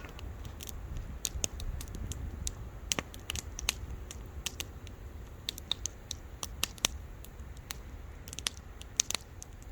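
Wood fire crackling: irregular sharp snaps and pops, a few a second, over a steady low rumble.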